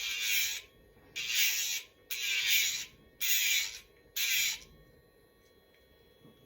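Electric pet nail grinder running with a faint steady hum, touched to a dog's nail in five short grinding passes, each under a second, in the first two-thirds; the motor's pitch sags briefly at the end of each pass.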